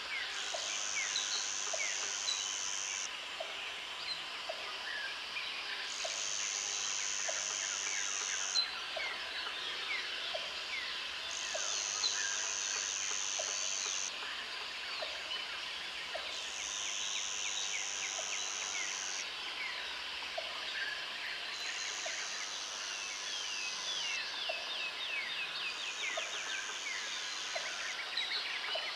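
Jungle ambience: many birds chirping and calling over one another, with a high insect buzz that starts and stops in spells of two to three seconds, about every five seconds. Under them, a short low note repeats about once a second.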